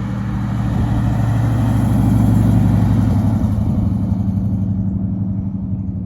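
Buick GS 400 V8 running at a steady engine speed. Its note grows louder to a peak about two seconds in, then gradually fades.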